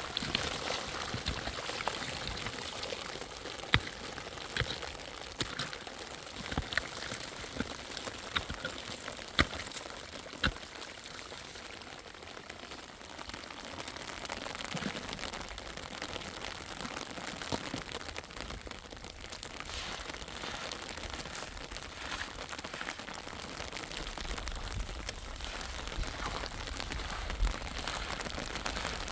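Steady rain with water pouring and dripping, and a few sharp knocks in the first half.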